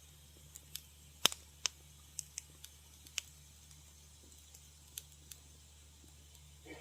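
Wood fire crackling in a fireplace: irregular sharp pops and snaps over a low steady background, the loudest snap a little over a second in.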